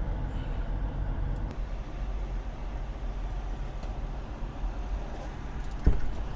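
Steady low rumble of an idling diesel truck engine, with a single sharp knock near the end.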